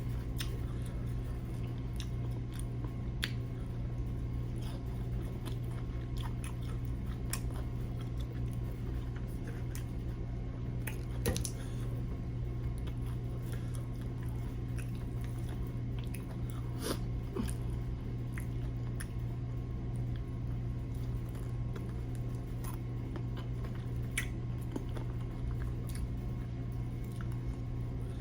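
A person chewing crisp fried chicken wings close to the microphone, with scattered crunchy bites, over a steady low hum.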